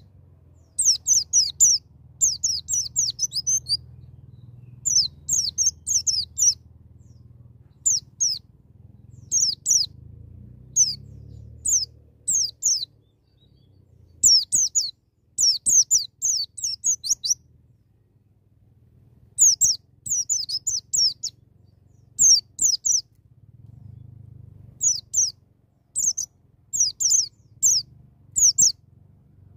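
White-eye (pleci) singing in the 'ngalas nembak' style: repeated bursts of rapid, high-pitched chirping notes, each burst about a second long with short pauses between.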